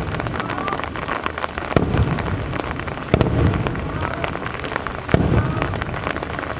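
Aerial fireworks shells bursting, three booms about a second and a half apart, each trailing off in a low rumble, over the steady hiss of falling rain.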